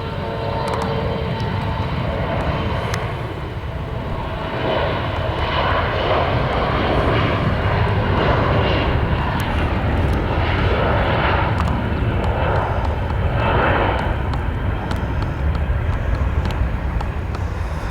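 Jet airliner engines running at high power: a loud, steady low rumble with a rushing noise above it that swells and surges in waves through the middle of the passage.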